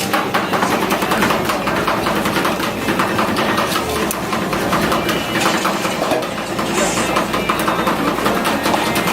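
Metal spatulas rapidly chopping and scraping ice cream on the frozen plate of a rolled ice cream machine, a dense clatter of quick taps over a steady machine hum.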